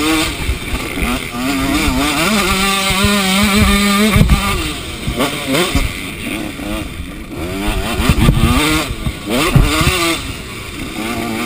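Motocross bike engine revving hard under the rider, its pitch climbing and dropping again and again as the throttle opens and closes through the track's sections. A sharp thump about four seconds in.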